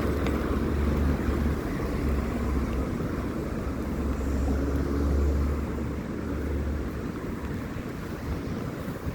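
Wind rumbling on the microphone over a steady hiss of street and road noise. The deep rumble comes and goes, strongest in the first half and easing near the end.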